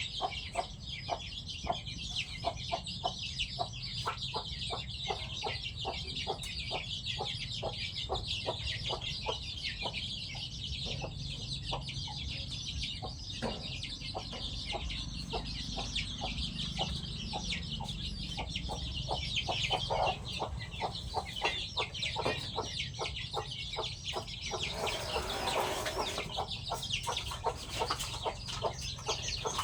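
Free-range village chickens clucking and pecking as they feed, with many short, sharp sounds in quick succession. A louder noisy burst comes about 25 seconds in, over a steady high-pitched background hiss.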